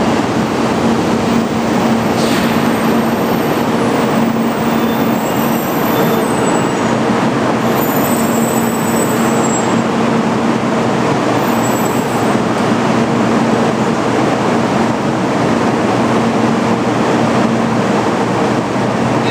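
A standing 800 series Shinkansen train hums steadily and loudly from its on-board electrical and air-conditioning equipment, with a low drone running through a broad, even rush.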